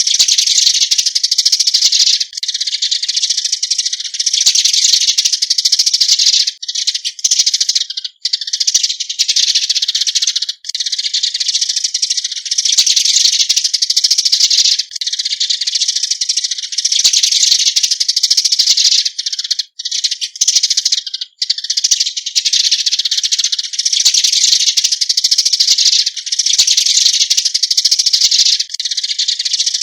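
A flock of Eurasian tree sparrows chattering: a dense, unbroken run of high chirps with a few brief pauses. These are the flock-gathering calls used as a decoy to draw other sparrows in.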